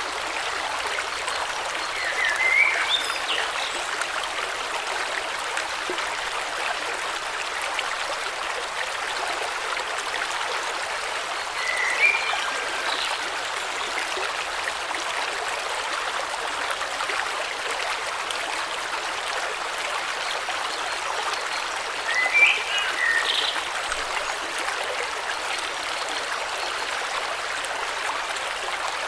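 River water flowing steadily, with three short bird calls spread through: one near the start, one in the middle and one about three-quarters of the way through.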